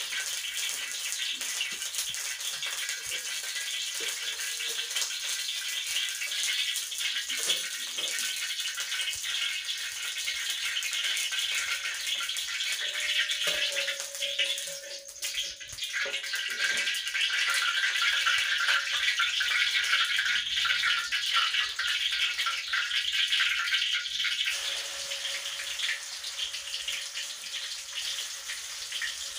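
Hand-ground chilli, shallot and shrimp-paste spice paste sizzling in hot oil in a steel wok as it is stir-fried with a spatula; the frying grows louder for several seconds in the second half.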